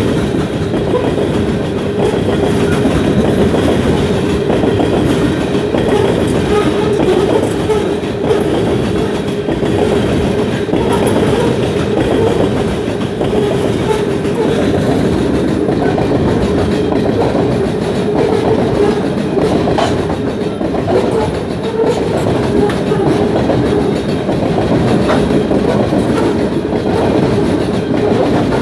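Coal train's gondola cars rolling past at close range: a steady rumble with the clickety-clack of wheels over the rail joints and a steady droning tone underneath.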